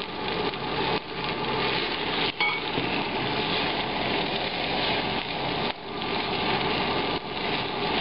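Shrimp, scallions, ginger and garlic sizzling steadily in very hot peanut oil in a stainless steel pan as they are stir-fried with a spatula. There is a single short knock of the spatula against the pan about two and a half seconds in.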